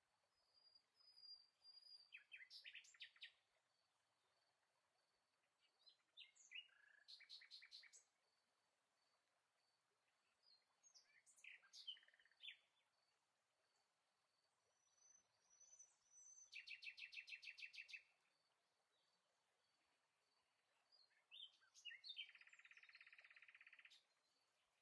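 Faint bird chirps and quick trills come in short groups about every five seconds, over a faint steady high-pitched tone.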